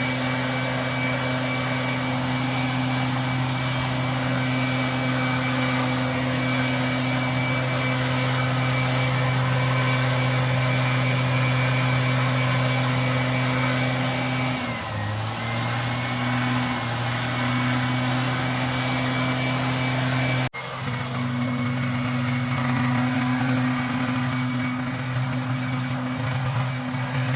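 An engine running steadily at constant speed with a thin high whine over it; its pitch sags briefly about fifteen seconds in and then recovers, and the sound breaks off for an instant about twenty seconds in before carrying on.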